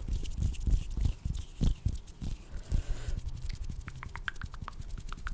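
Close-miked ASMR hand and mouth sounds: soft rubbing with dull thumps at first, then a run of small sharp clicks over the last second or so.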